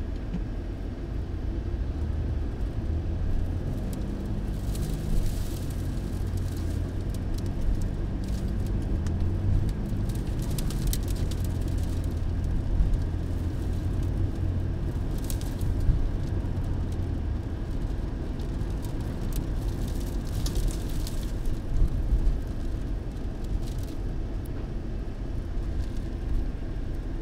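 Strong, gusty wind buffeting the microphone as an uneven low rumble, with several short hissing gusts. A steady low hum runs underneath through the first half.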